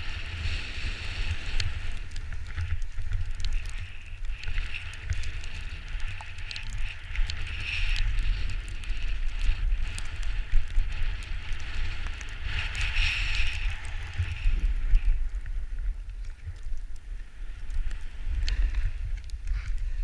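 Mountain bike riding along a forest trail, with wind buffeting the microphone as a low rumble, a steady hiss that swells and fades, and frequent small knocks and rattles from the bike over rough ground.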